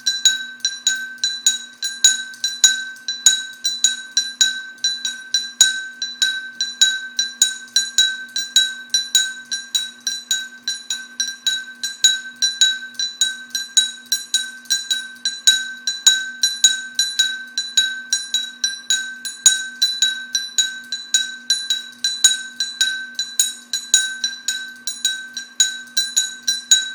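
Glass light shade on a running fan dinging over and over as it is struck, about three sharp same-pitched rings a second, over a faint steady hum.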